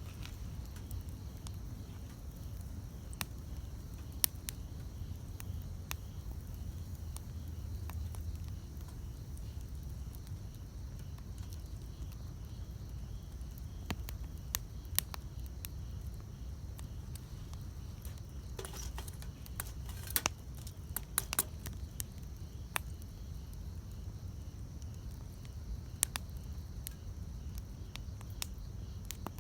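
Wood campfire burning with a low steady rumble and occasional sharp pops and crackles from the burning wood, a small cluster of them a little after the middle.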